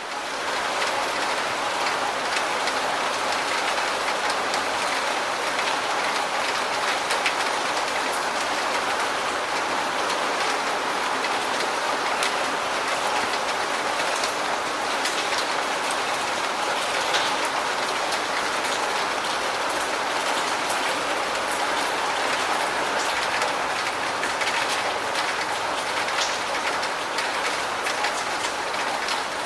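Steady rain falling, with many separate drops striking close by and sounding as short ticks over an even hiss.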